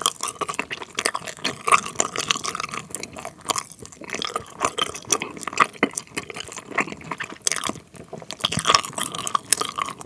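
Close-miked chewing of a Trolli Planet Gummi, a firm, bouncy gummy candy with a jam filling: many small, irregular mouth clicks and smacks as it is worked between the teeth.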